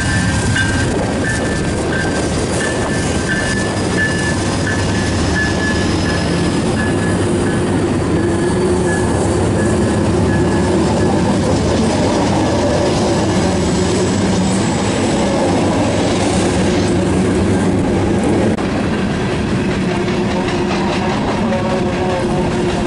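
Two Norfolk Southern GE C44-9W diesel locomotives pulling a freight train past at close range, their engines running under power, followed by loaded tank cars and covered hoppers rolling by with wheels clattering over the rails. A high tone breaks on and off during the first few seconds.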